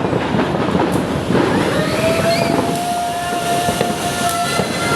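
Fireworks display heard as a dense, continuous rumble with only a few sharp cracks. A steady high tone is held for about three seconds in the middle, then stops.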